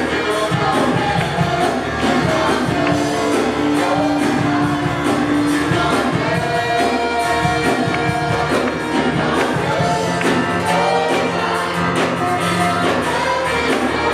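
Live gospel worship music: singers over a full band with a steady beat.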